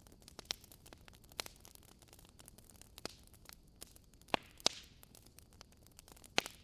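Wood fire burning in a fireplace, crackling: irregular sharp pops and snaps over a soft hiss, with two louder pops in quick succession a little past the middle.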